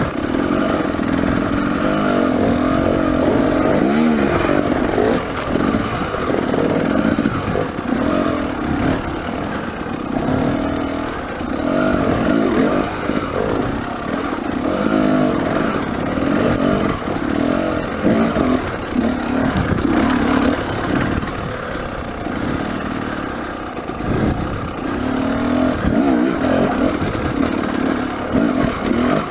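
A 300cc two-stroke enduro dirt bike engine, heard close from the bike, revving up and down with the throttle so that its pitch keeps rising and falling, with scattered knocks and clatter.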